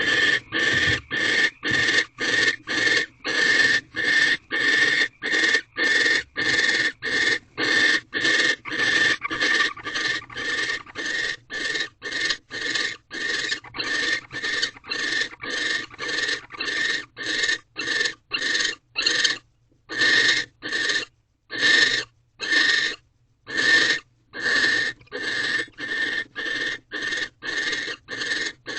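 Barn owl giving a long run of rasping, hissing calls, about two a second, with a few longer pauses about two-thirds of the way through. This is typical of the barn owl's food-begging 'snore' call as the male brings prey.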